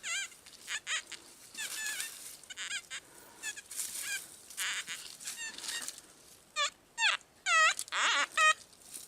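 Metal detector signal tones as a small target in the dug soil is checked: short, wavering electronic beeps that come in fits, louder and quicker in the last few seconds, some bending down in pitch.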